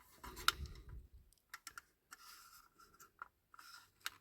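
Faint scattered clicks and light scraping as the small parts of a diecast model car are handled and pried apart, with a sharper click just before the end.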